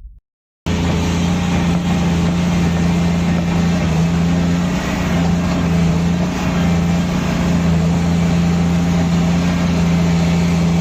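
Heavy mining machine's diesel engine running steadily, with a constant low hum. It starts abruptly less than a second in, after a moment of silence.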